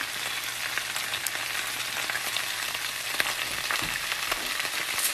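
Fresh spinach sizzling in a hot skillet as it wilts: a steady frying hiss with scattered small pops.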